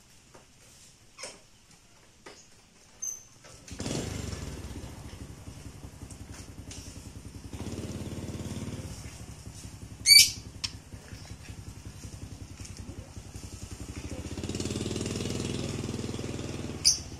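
A small engine starts running about four seconds in with a rapid, even pulse, swelling louder twice. Two short, sharp high-pitched squeaks cut through it, one near the middle and one near the end.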